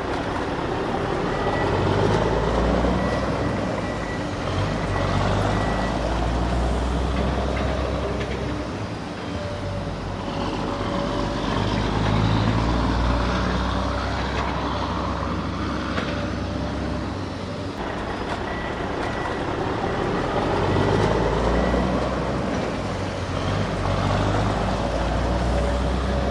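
Steady vehicle-engine rumble with a thin whine running over it, swelling and easing a few times.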